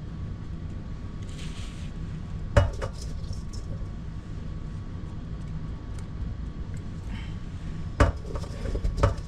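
Three sharp clinks or knocks, one about two and a half seconds in and two near the end, over a steady low rumble.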